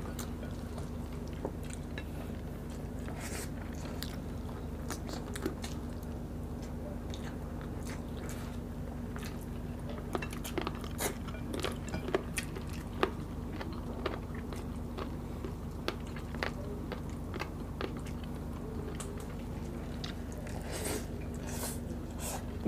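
Close-miked mukbang eating: two people biting and chewing chicken adobo with rice and egg, with many short wet mouth clicks and smacks, thickest about halfway through and again near the end. A steady low hum runs underneath.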